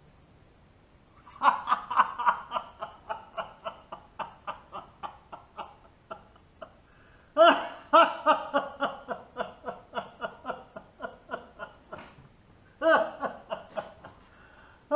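A man laughing in three long fits of rapid chuckles, about five a second, the first starting about a second and a half in, the second about seven seconds in and a short third near the end.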